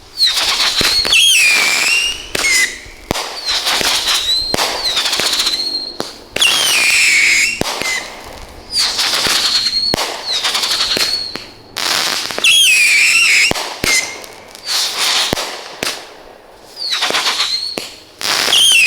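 Firehawk 'Whistle in the Wind' fireworks cake firing a rapid string of whistling shots, each whistle wavering and falling in pitch over a second or so, mixed with sharp cracks and crackle, with brief pauses between volleys.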